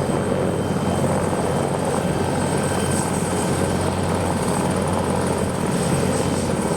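Bell 412EP helicopter running steadily: the dense rumble of its turboshaft engines and rotor, with a thin, steady high whine above it.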